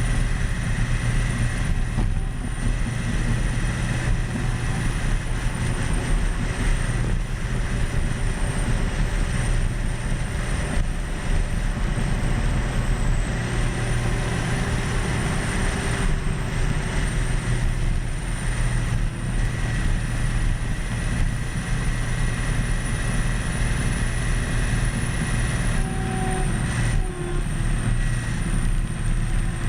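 Caterpillar D10 bulldozer running steadily: a continuous deep diesel drone with mechanical noise and a thin high whine on top.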